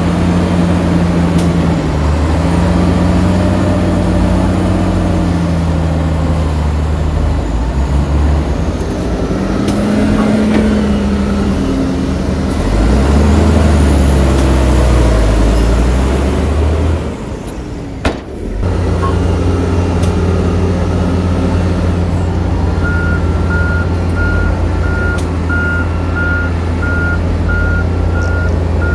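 Heavy diesel engines of earthmoving machinery working, their pitch rising and falling with load. A short lull comes with a click in the middle. From about two-thirds of the way through, a reversing alarm beeps in an even repeating pattern.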